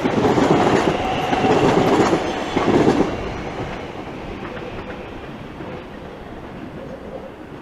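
TfL Rail Class 345 Aventra electric multiple unit running past on the rails, loud at first and then fading away steadily from about three seconds in as it draws off.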